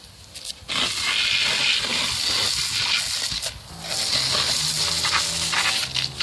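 Garden hose spray nozzle hissing as water is blasted into a bee swarm in a tree, starting about a second in. Background music comes in about halfway through.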